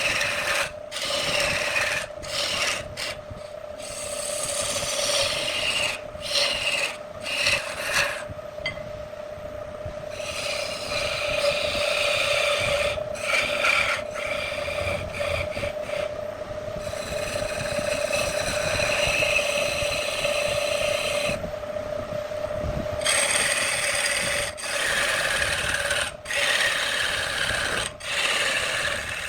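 Wood lathe running with a steady hum while a turning tool scrapes and cuts the spinning wood, the cutting noise swelling and fading, broken by several brief sudden gaps.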